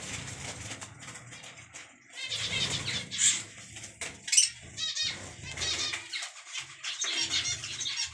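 Small cage birds, finches and lovebirds, chirping and twittering busily, with a couple of sharper, louder calls.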